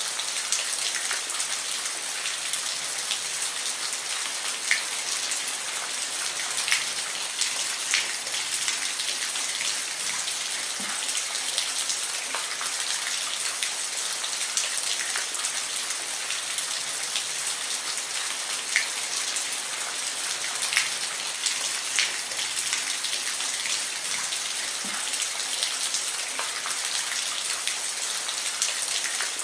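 Steady rain falling, a constant hiss with distinct individual drops ticking on a surface here and there.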